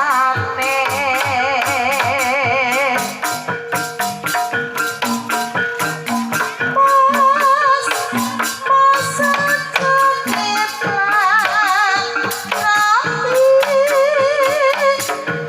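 Banyumasan tayub gending: a sinden singing with wide vibrato over a Javanese ensemble of struck tuned percussion and quick drum and rattle strikes.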